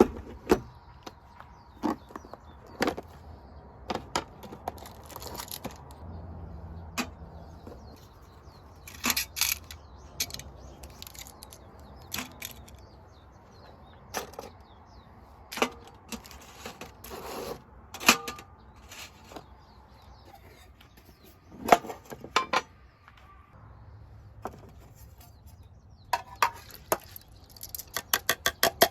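Light metal clinks and knocks of a small folding fire pit's parts being handled and fitted together, scattered and irregular. Near the end comes a quick run of even ticks.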